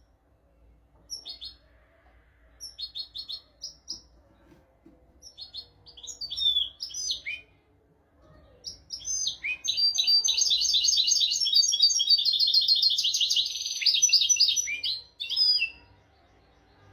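European goldfinch singing: several short bursts of sharp twittering notes, then about halfway through a long, fast, loud trill of some five seconds, closing with a brief last phrase.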